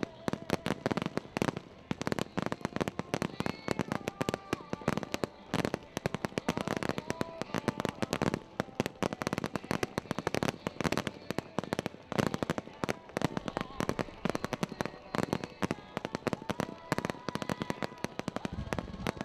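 Fireworks display: a dense, continuous run of rapid bangs and crackling pops, many shells going off close together.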